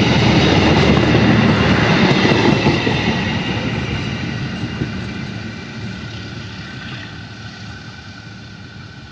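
A passing train, its rumble and wheel-on-rail noise loud at first and then fading steadily over the last several seconds as it moves away.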